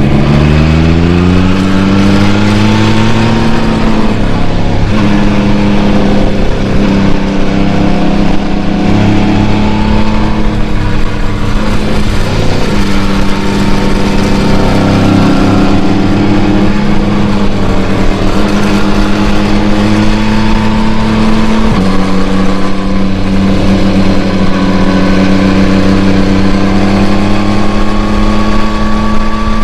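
2021 Yamaha MT-09's inline three-cylinder engine through its stock exhaust while ridden: it revs up steeply in the first few seconds, drops sharply at an upshift about four seconds in, then runs at a steady cruise with a couple of brief dips and gentle rises. Revs stay below 6000 rpm because the engine is being run in.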